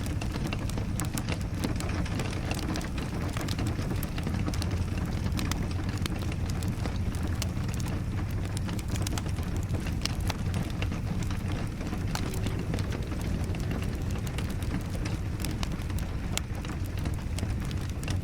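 Wood fire crackling in a fireplace with rain falling: a steady low rumble under frequent sharp pops and crackles.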